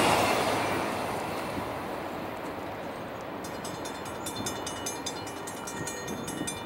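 Freight train rolling away over the crossing, its rumble fading over the first few seconds. From about halfway, a grade-crossing bell rings in quick, even strokes as the crossing gates rise.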